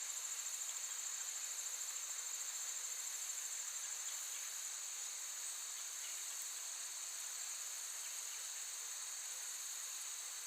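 Crickets chirping in a continuous, high-pitched chorus with a fast, even pulse.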